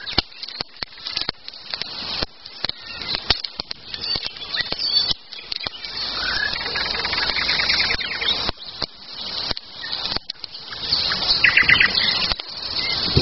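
Songbirds singing and chirping, with a fast trill about halfway through and another near the end, over a steady run of sharp crackles and snaps from a burning campfire.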